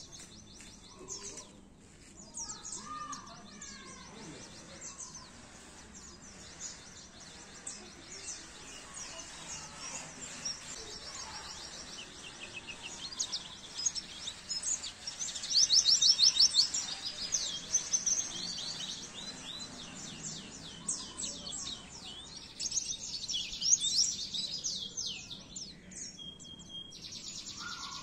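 White-eye (pleci) song: rapid, high-pitched twittering and trills, with a loud burst of fast repeated notes around the middle and another near the end.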